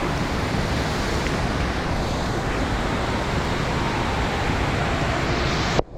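Steady heavy rain noise with wind buffeting the microphone.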